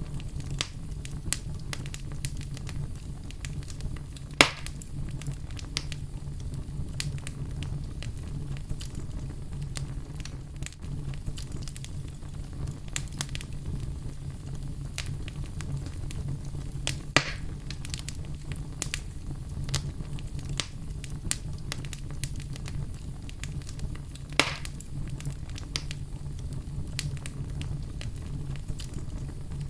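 Wood fire burning in a fireplace: a steady low rumble of flames with frequent small crackles and three louder pops spread through the stretch.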